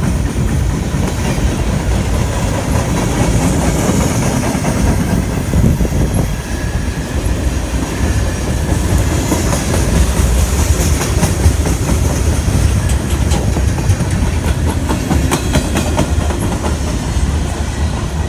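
CSX freight train cars rolling past, a loud, steady rumble, with the wheels clicking over rail joints, most densely past the middle.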